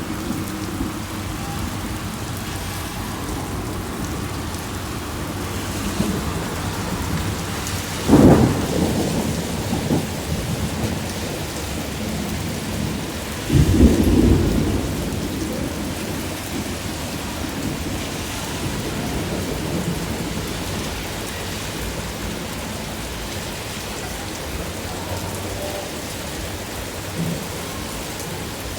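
Heavy rain falling steadily, with two loud low rumbles of thunder, the first about eight seconds in and the second, longer one about fourteen seconds in.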